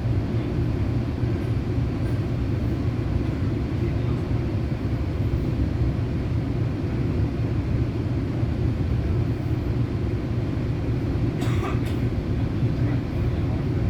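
Rail Runner commuter train running, a steady low rumble heard from inside the passenger coach, with a brief higher-pitched sound about eleven seconds in.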